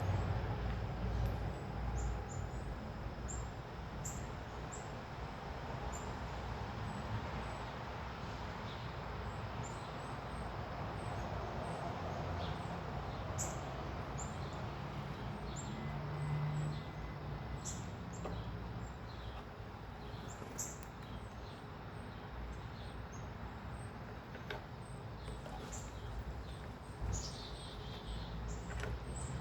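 Small birds chirping at a feeder: many short, high chirps scattered throughout, with one longer falling call near the end, over a steady low background rumble.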